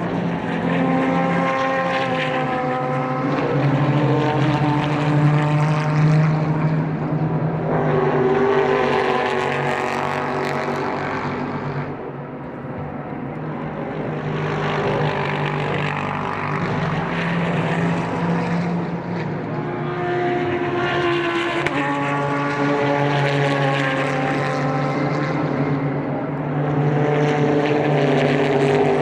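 Super GT race cars going past one after another at speed, their overlapping engine notes changing pitch in steps, with the sound swelling and easing as each car passes and a lull about twelve seconds in.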